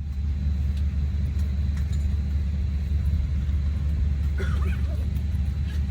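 Steady low drone of an airliner cabin's ventilation while the Boeing 737-800 stands at the gate before engine start, with faint passenger voices about two-thirds of the way through.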